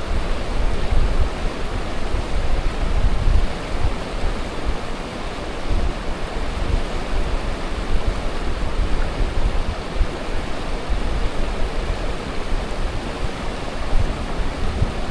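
Strong wind buffeting the microphone in uneven gusts over a steady rushing noise.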